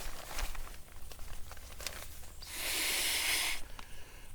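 A single long breath blown into the inflation valve of a Klymit Static V sleeping pad, a rushing puff of about a second a little past halfway, with faint clicks and rustles of handling before it.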